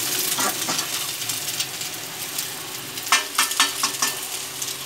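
Egg and vegetables sizzling in hot oil in a metal kadai, a steady hiss. A slotted metal spoon stirs through them and knocks against the pan several times about three seconds in.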